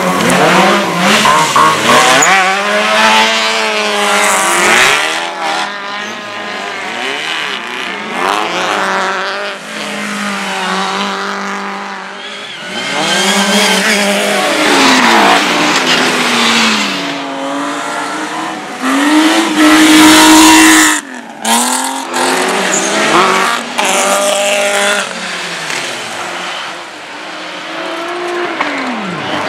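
Race car engines revving hard and falling back again and again through gear changes and corners, with tyre noise. About twenty seconds in, an engine is held at high revs at its loudest, then the sound briefly cuts out.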